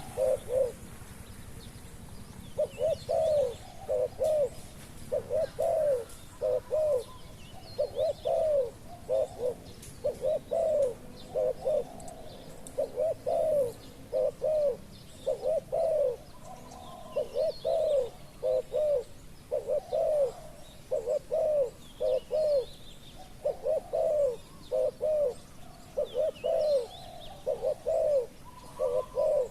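Spotted doves cooing over and over: a short phrase of two or three low notes roughly every second and a half. Faint chirps of small birds sound in the background.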